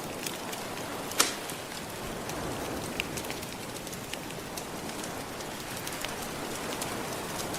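Fireplace fire crackling with scattered pops, one sharp loud pop about a second in, over a steady wash of gentle ocean waves.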